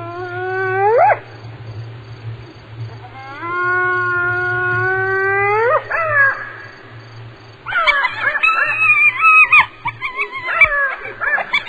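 Hyena calling: two long whoops, each held low and then sweeping sharply up in pitch at its end, the first ending about a second in and the second running from about three and a half to six seconds. From about eight seconds comes a quick run of short, wavering calls.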